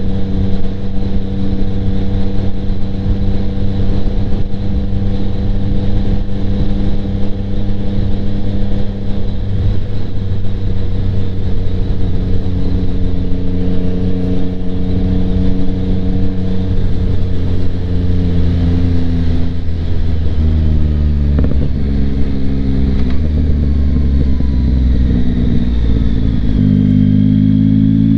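Yamaha MT-09's 890cc inline-triple engine running through a Kelpi Flanker aftermarket exhaust with the baffle in, heard from inside the rider's helmet while riding. The engine holds a steady note for most of the time, then its pitch changes in several steps about two-thirds of the way through before settling at a steady note near the end.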